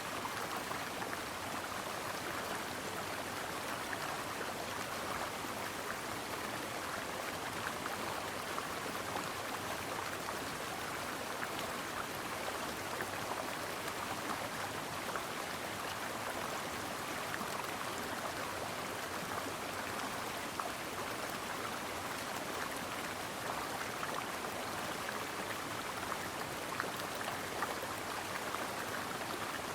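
Brook water flowing steadily: an even rush with fine splashy ticks, strongest in the mid-range.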